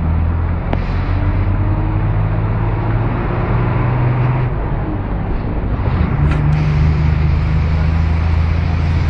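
Road traffic at a roadside bus stop, dominated by the low, steady hum of a heavy vehicle's engine running close by.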